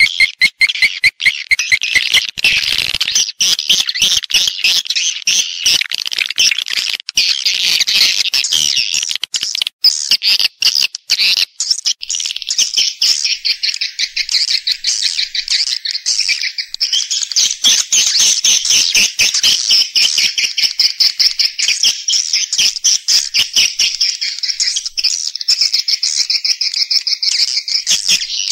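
Swiftlets twittering in a dense, continuous chorus of rapid high chirps. This is a swiftlet lure recording of call and roosting sounds, played to draw swiftlets into a nesting house.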